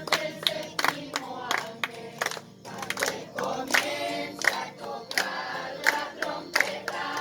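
A group of voices singing together, with hands clapping along in a steady beat about two to three times a second.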